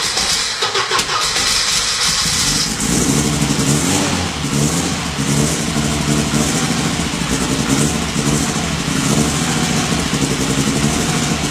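Freshly built turbocharged Volvo B230 2.5-litre eight-valve inline four-cylinder running on its first startup. A loud high hiss in the first few seconds gives way to a steady, pulsing engine note about three seconds in.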